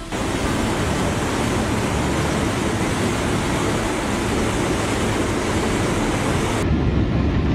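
Steady rushing roar of a fast, swollen river or torrent. Near the end the sound changes abruptly, losing its hiss.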